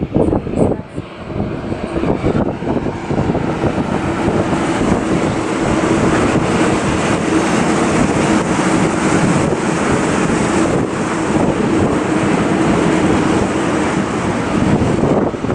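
Freight train of container and tank-container wagons rolling past: a steady rumble of wheels on rail that swells over the first few seconds and then holds level, with a faint steady hum.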